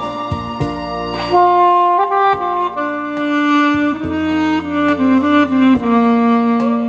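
Alto saxophone playing a song melody in long held notes that step from pitch to pitch, over a backing accompaniment with a bass line.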